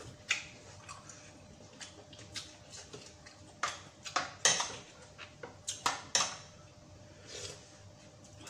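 Spoons and forks clinking and scraping against ceramic bowls and plates during a meal, in a string of irregular clinks that come thickest around the middle.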